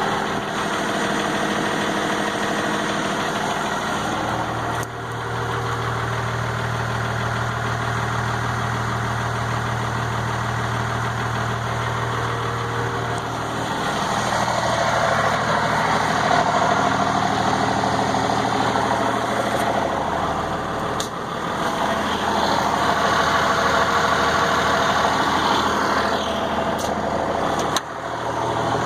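12-valve Cummins 5.9-litre inline-six diesel idling steadily while warming up after a cold start, its tone shifting a couple of times.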